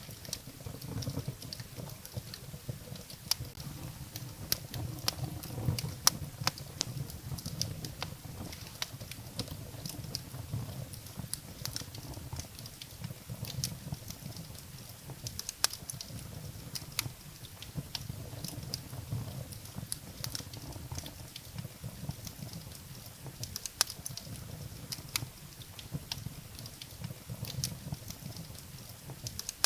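Wood fire burning in a fireplace: irregular sharp crackles and pops from the burning firewood over a low, steady rumble of the flames.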